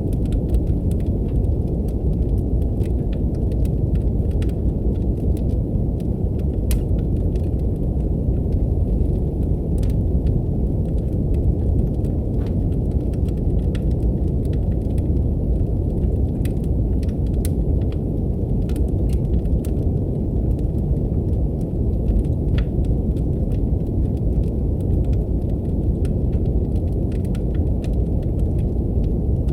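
Brown noise, a steady deep hiss, mixed with the irregular sharp crackles and pops of a wood fire burning in a fireplace.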